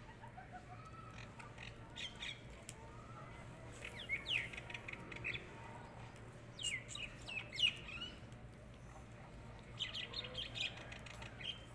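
Birds calling: short chirps and squawks in scattered clusters, the loudest about two-thirds of the way through, over a faint steady low hum.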